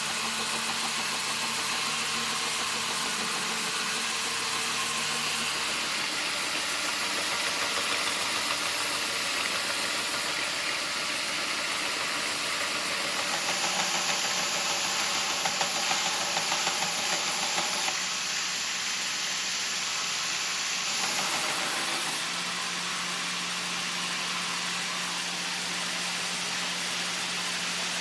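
Steady running of a workshop power tool's motor, a continuous whirring hiss whose tone shifts abruptly every few seconds.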